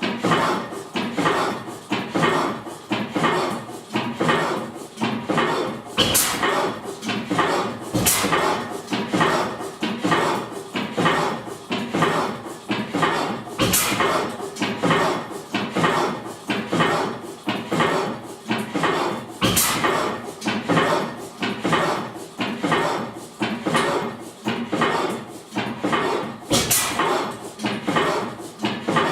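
1897 Crossley vertical gas engine running, its valve gear clattering in a steady rhythm of somewhat under two knocks a second. A sharper bang, a firing stroke, comes only every few seconds, five times in all, as a hit-and-miss governed engine fires only now and then.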